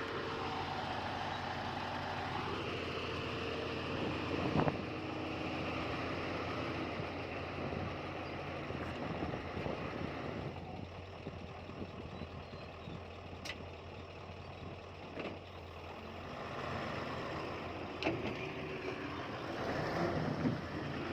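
Diesel engines of heavy earthmoving machinery, a bulldozer and dump trucks, running steadily, with a few sharp metallic knocks.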